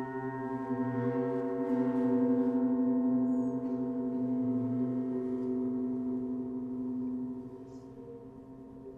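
Planet-tuned gongs ringing with a sustained hum of many steady overtones. The sound swells as they are softly struck again about one and two seconds in, then fades from about seven seconds on.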